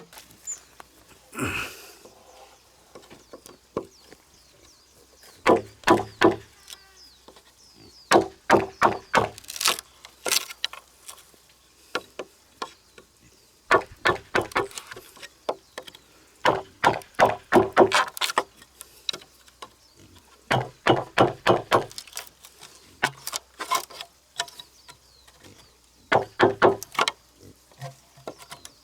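A tool striking wood over and over, in bursts of several quick blows separated by short pauses.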